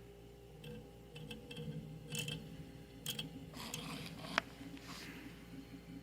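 Old mini fridge's compressor humming steadily, with irregular clicking and rattling from its contacts, including a sharp click about four and a half seconds in. The owner suspects the contacts are bouncing and not fully connecting because they are worn.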